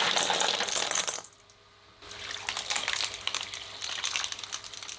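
Water pouring into a bowl of ice cubes, the ice clinking, stopping abruptly about a second in. After a brief lull, a steady crackling sizzle of chicken feet deep-frying in oil.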